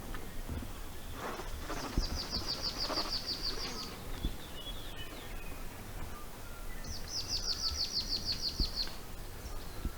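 A bird trilling twice: a fast run of high, evenly repeated notes lasting about two seconds, starting about two seconds in and again about five seconds later, over steady outdoor background noise.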